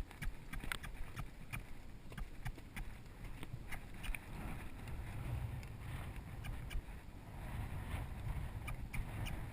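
A horse's hooves striking rocky ground at a walk, as irregular clicks and knocks, over low wind rumble on the microphone that grows stronger about halfway through.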